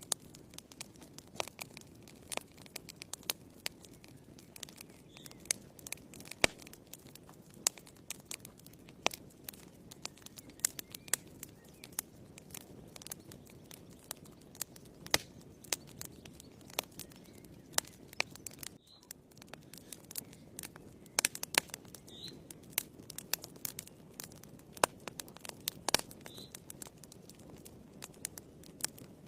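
Wood fire burning in a fireplace: a steady low rush of flame with irregular crackles and sharp pops from the burning logs, a few of them much louder than the rest.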